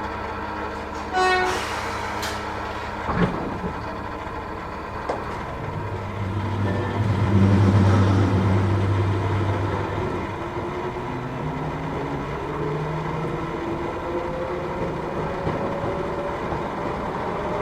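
Matsumoto Electric Railway 3000 series electric train heard from inside the car. A brief pitched tone sounds about a second in and a knock about three seconds in. Then the low motor hum swells, and the motor whine climbs steadily in pitch as the train picks up speed.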